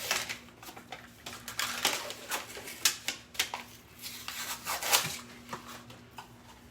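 Paper label being peeled and torn off a tube of refrigerated crescent-roll dough: irregular crinkling, tearing and light tapping, with the can not popping open.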